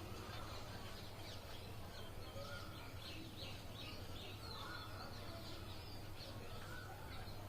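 Faint birds chirping in the background over a low steady hum, with no clear knocks or clanks.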